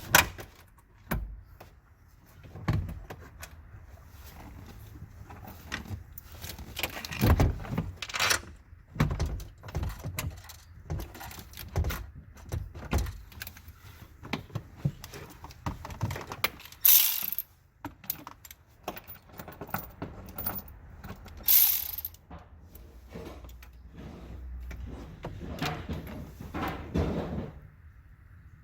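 Irregular metallic clicks, knocks and rattles of hand tools and parts being handled during work on a car's high-voltage battery pack, with two short harsh rasps in the second half.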